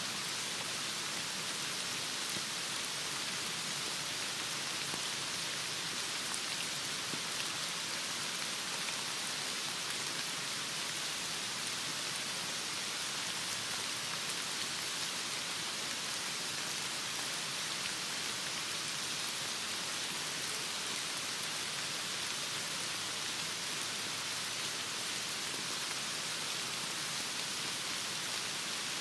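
Heavy rain falling steadily, an even hiss of drops with no pauses or changes.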